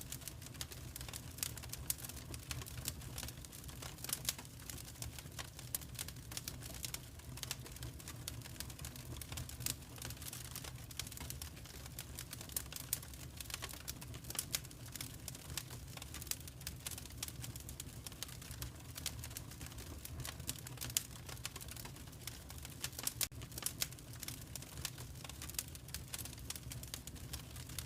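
Wood fire crackling in a fireplace: frequent irregular pops and snaps over a low, steady rumble.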